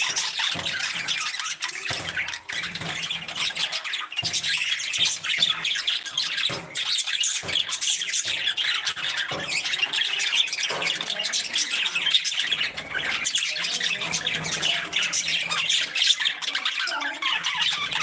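A flock of parrots chattering and squawking without pause, many high calls overlapping at once.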